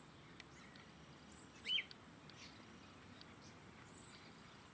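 Wild birds calling: scattered short, high chirps, with one louder call nearly two seconds in, over faint background noise.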